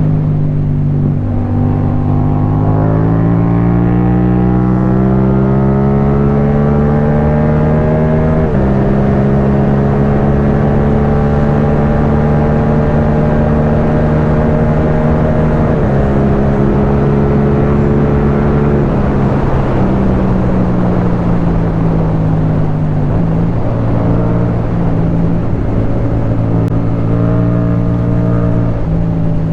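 Yamaha MT-07's parallel-twin engine through an Akrapovic titanium exhaust, pulling under load: its pitch climbs steadily, drops sharply at upshifts about eight and sixteen seconds in, then eases off and picks up again near the end.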